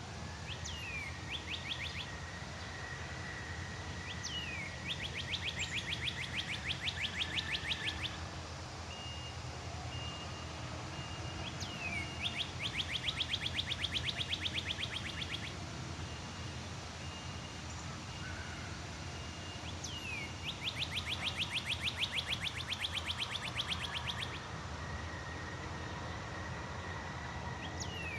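A songbird repeating the same song three times, about seven to eight seconds apart: a quick downward-slurred note followed by a fast, even trill lasting about three seconds. A steady thin high tone and a low hum run underneath.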